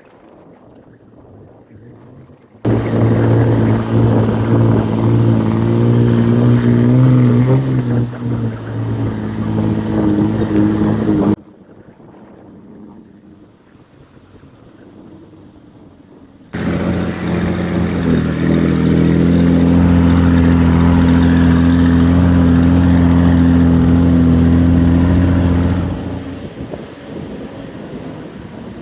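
Old Dodge pickup's engine pulling under a load of one pallet of concrete up a steep hill: a steady drone in two stretches of several seconds, each starting and cutting off abruptly, with quieter wind noise between.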